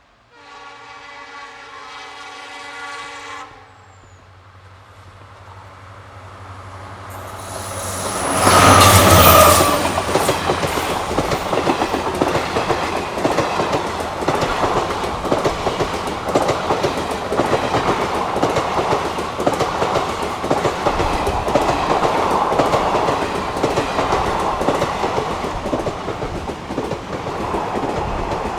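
Passenger express train horn sounding for about three seconds, then the train approaching at speed and passing close by, loudest about nine seconds in, followed by the steady rhythmic clatter of the coaches' wheels over the rail joints.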